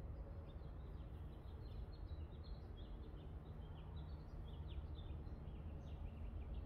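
Small birds chirping, many short high chirps in quick succession, over a steady low background rumble.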